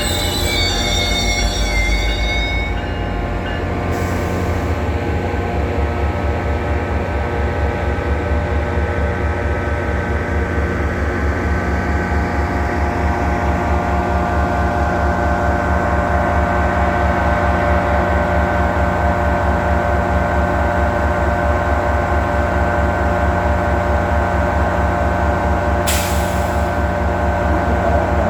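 Caltrain train running steadily, with a low rhythmic throb under a steady whine of several pitches. A thin high squeal in the first couple of seconds dies away, and there is a short sharp click near the end.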